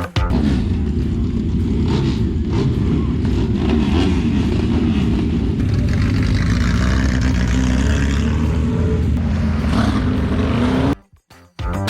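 Sidecar motocross outfits' engines running, their pitch wavering up and down as they rev. The sound cuts off suddenly about eleven seconds in.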